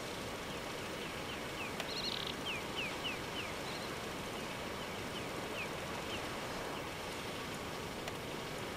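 Steady outdoor hiss with a bird calling a string of short, falling chirps from about a second in until about six seconds, plus one brief buzzy note near two seconds.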